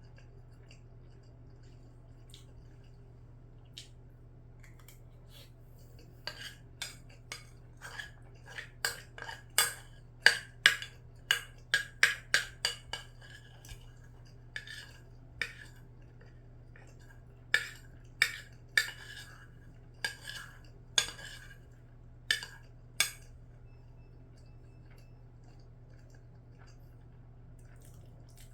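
Cutlery clinking against a dish during a meal: about two dozen short, bright clinks in quick irregular succession, with a brief pause midway.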